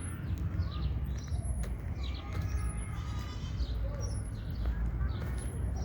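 Several birds chirping and calling with short, quick, mostly falling notes and thin high peeps, over a steady low rumble.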